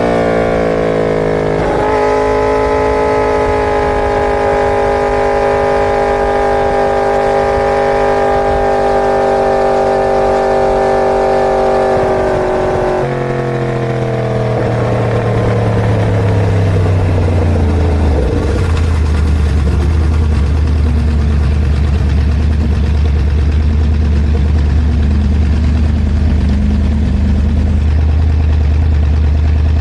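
Inline-four sportbike engine held at high revs, steady for about ten seconds. Then the revs fall away over several seconds and it settles into a steady idle.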